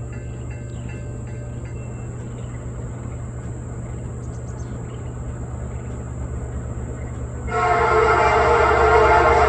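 Low steady rumble of an approaching train, then about three quarters of the way through the EMD SD70MAC locomotive's K5LA air horn starts a loud, steady multi-note blast for the grade crossing. The horn is described as a fouled K5LA.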